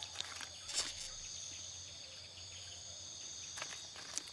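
A steady chorus of insects trilling in a few constant high tones, with a few faint clicks and rustles.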